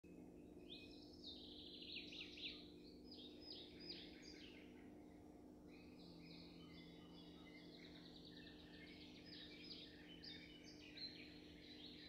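Faint birdsong: rapid chirps and trilled calls from birds in the trees, in one run for the first few seconds and another from about halfway on, over a steady low hum.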